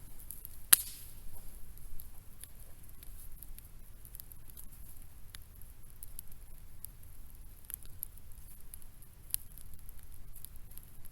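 Scattered small clicks and crackles at an irregular pace, with one sharp click about a second in.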